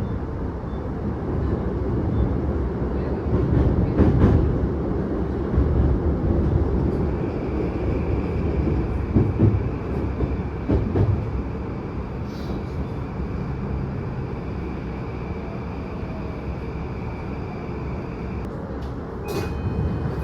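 Commuter electric train heard from inside the carriage: a steady low rumble of wheels on rail with a few sharp knocks over rail joints. A steady high whine joins about a third of the way in, and the running noise quietens in the second half as the train slows for a station stop.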